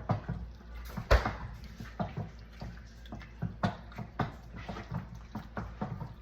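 A utensil stirring food in a cooking pot: irregular clinks and knocks against the pot with wet sloshing, the sharpest knock about a second in.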